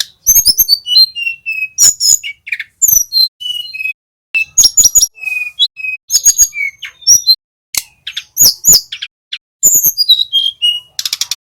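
Tledekan gunung, a small Indonesian flycatcher, singing a rapid, varied song. High whistled notes and falling slurs are mixed with sharp clicking notes in quick bursts, broken by short pauses, with a fast run of clicks near the end.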